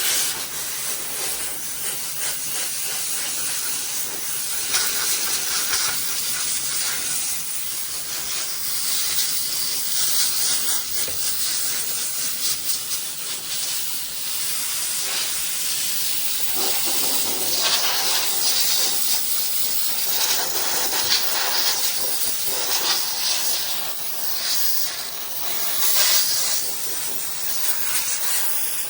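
Small handheld steam cleaner blasting a jet of steam, a continuous hiss that swells and eases irregularly as the jet is worked over the part.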